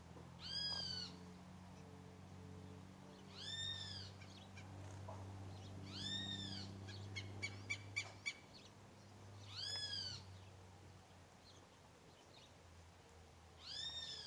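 A bird calling five times, roughly every three seconds: each call is one short note that rises and falls in pitch. A quick run of faint ticks comes between the third and fourth calls.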